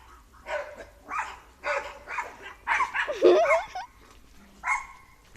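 A dog barking several times in short separate barks, then a longer call with a wavering pitch about three seconds in.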